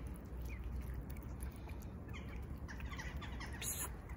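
Small birds chirping: quick, short chirps, several in a rush about two to three seconds in, over a steady low rumble.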